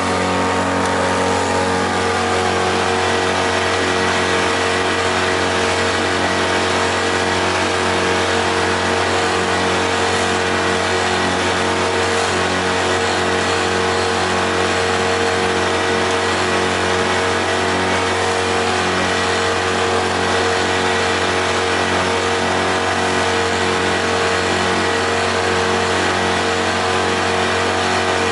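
Freshly overhauled boat outboard motor running steadily at a constant cruising speed, with an even rush of noise over it.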